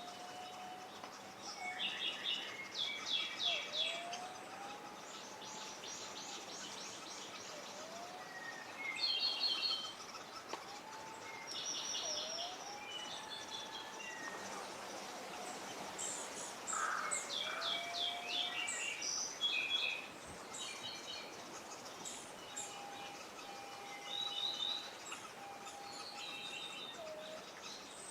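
Several wild birds calling: short rapid series of high chirps at irregular intervals, with a soft low whistle that rises and repeats every couple of seconds, over a steady background hiss.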